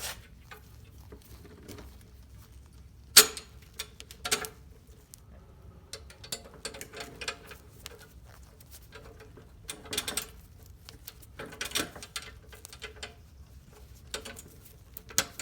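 Clicks, taps and scratchy rattles of a mower control handle (stop bar) being handled and fitted onto a push mower's handlebar, with one sharp click about three seconds in standing out from the rest.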